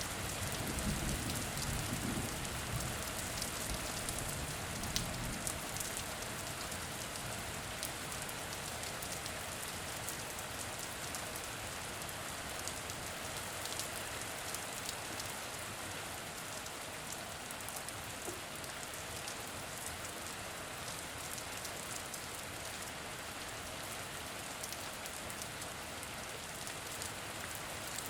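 Steady rain falling, with individual drops ticking sharply here and there. A low rumble of thunder dies away over the first five seconds or so.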